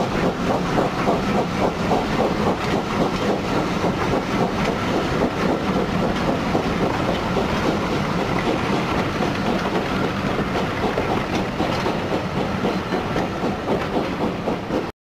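Steam-hauled train running on the line: a steady rumble with quick, repeated clatter of wheels over the rails. It cuts off suddenly near the end.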